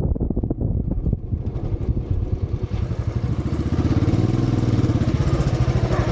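Motorcycle engine running with a rapid, even train of firing pulses; a hiss of wind and road noise comes up about a second in, and the engine note rises and falls slightly around the middle.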